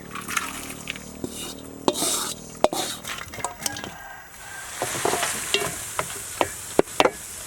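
Food sizzling as it fries in a pan while being stirred, with repeated sharp knocks and scrapes of the utensil against the pan.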